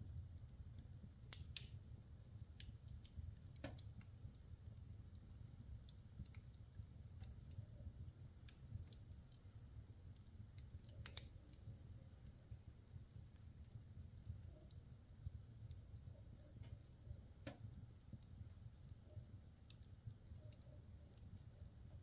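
Logs burning in a wood fireplace, crackling faintly with frequent irregular small snaps and a few louder pops, over a low steady rumble.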